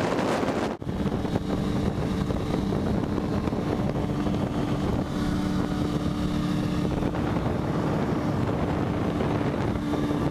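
Sport motorcycle engine running at a steady cruising speed under heavy wind noise on the microphone. Less than a second in the sound briefly drops out, then the engine drone carries on evenly.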